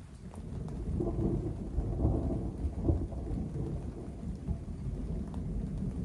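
Thunder rumbling low and long, swelling about a second in and easing off after about three seconds, over steady rain.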